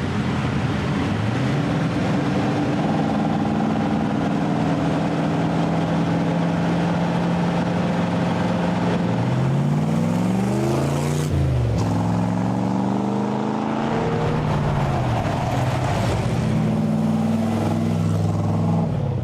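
1965 Corvette Stingray's V8 engine running on the road, its pitch climbing and dropping several times as it accelerates and shifts, with a sharp rise and fall about eleven seconds in.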